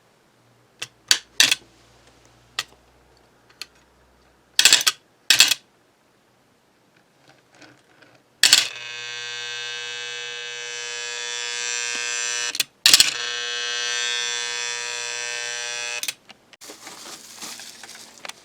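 Vintage American Flyer train accessory buzzing electrically under power for about seven seconds, briefly cut by a click partway through. A few sharp clicks come before it.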